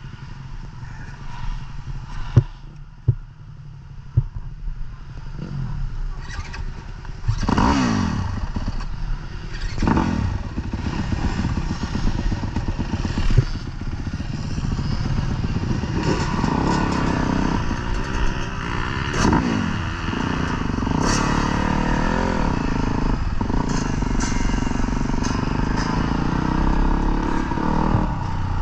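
Motocross dirt bike engines revving up and down as they ride on a track, with a few sharp knocks in the first few seconds; from about halfway the engine sound gets fuller and more continuous.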